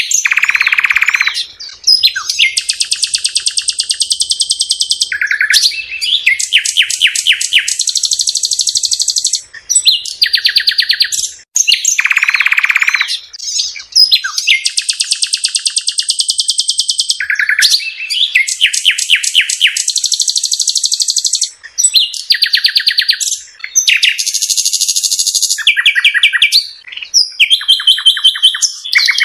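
A songbird singing loudly and close, in long, varied phrases of rapid trills and fast repeated notes with only brief pauses.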